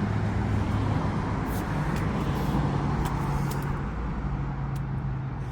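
Steady low rumble of road traffic, with a low hum and a few faint light clicks.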